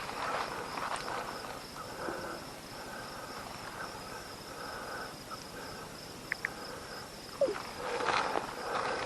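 Insects chirping steadily in the woods, with a couple of small clicks and a short falling squeak, then footsteps rustling through the forest floor near the end.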